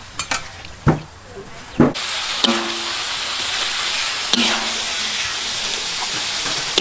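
A couple of metal knocks of cookware, then about two seconds in a steady sizzle of pork stir-fry in a hot wok starts. A few spatula scrapes come through as the food is turned out onto a tray.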